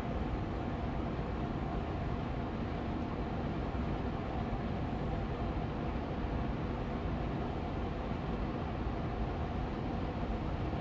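Austin Air Allergy Machine air purifier's fan running steadily on medium speed: an even, low-pitched rush of air with a faint hum.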